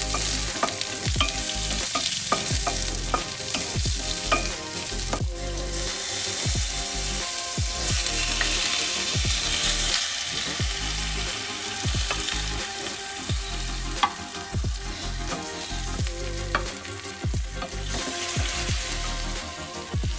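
Chopped spices and aromatics sizzling in hot oil in a stainless-steel wok, with a wooden spatula stirring and knocking against the pan many times. The sizzle grows loudest around the middle as fresh washed squid is tipped into the wok.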